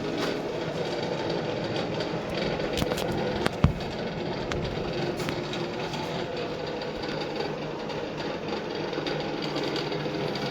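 Train running on the rails: a steady rumble and rattle of wheels and running gear, with one sharp knock about three and a half seconds in.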